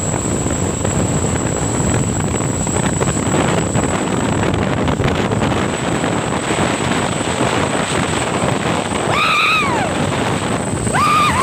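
Steady rumble of road traffic with wind noise. Two short pitched calls, each rising then falling, come near the end.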